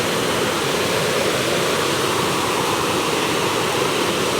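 Small waterfall: water rushing and splashing steadily without letup.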